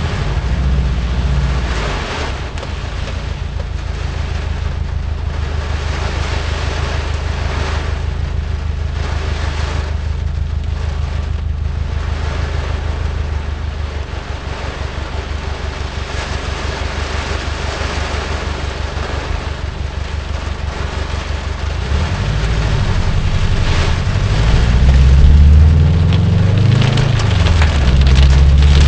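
Car driving through heavy hurricane rain, heard from inside the cabin: a steady rush of rain and road noise over the engine's low hum. From about 22 s in, the engine rises and falls in pitch as the car speeds up and the noise gets louder.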